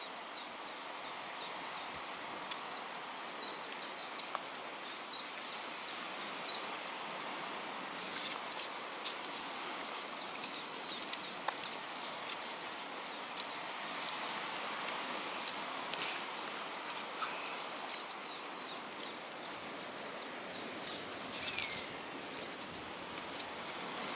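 Birds singing in woodland, with a run of short, repeated high chirps for the first several seconds and a few more later, over a steady outdoor hiss. Light crackles and rustles come now and then, mostly around a third of the way in and again near the end.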